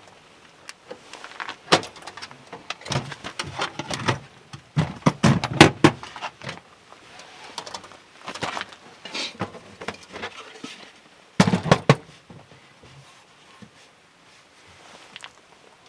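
Irregular knocks, clicks and rattles of hard objects being handled, in bursts, with the loudest clatter about five to six seconds in and another sharp burst near twelve seconds; quieter toward the end.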